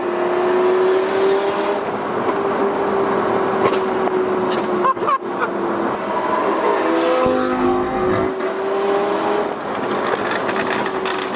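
Straight-piped V10 of a Lamborghini Gallardo Superleggera running at steady revs under light throttle, with a few sharp exhaust pops around five seconds in. The engine's pitch shifts and wavers briefly about seven seconds in before settling again.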